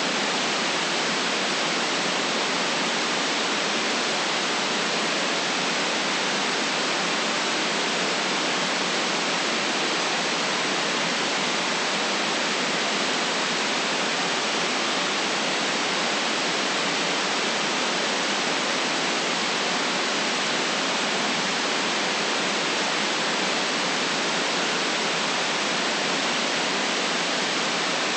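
Steady white noise: an even, unchanging hiss spread from low to high pitch, with no breaks or variation.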